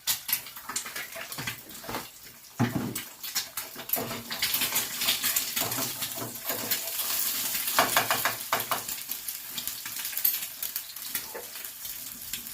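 Clatter of a pan and utensils, with a few knocks, then a hissing sizzle from about four seconds in as an egg fries in hot oil, easing off near the end.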